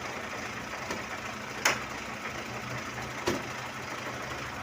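Steady machinery noise in a heavy-equipment workshop, a low engine hum under a hiss, with two sharp knocks about a second and a half apart.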